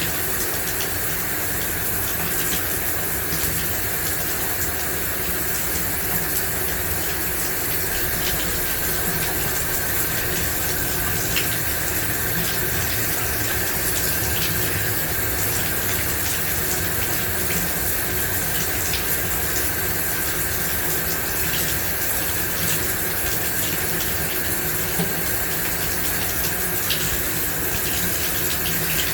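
Shower running: a steady spray of water hitting a surface, with scattered droplet splashes.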